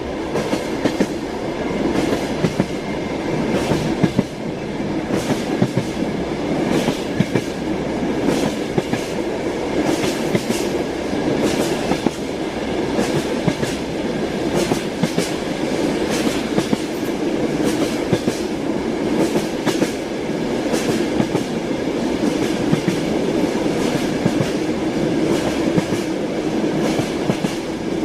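Train wheels knocking over the rail joints, heard from inside a moving carriage: a continuous rumble with many sharp clicks.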